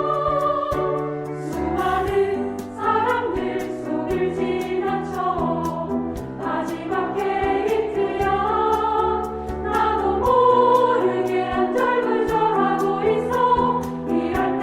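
Women's choir singing in harmony over instrumental accompaniment with a bass line and a steady beat.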